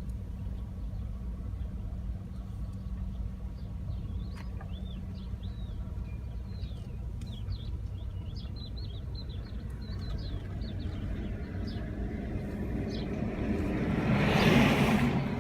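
Steady low outdoor rumble with many quick bird chirps, then a vehicle passing close near the end, swelling up and fading away.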